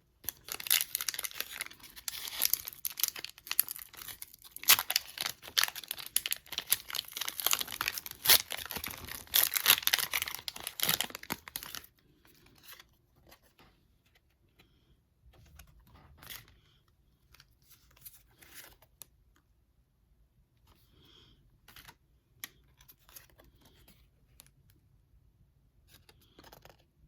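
A Pokémon card pack's foil wrapper crinkling and tearing open, with dense crackling for about the first twelve seconds. After that come only faint, scattered rustles and light taps as the cards are handled.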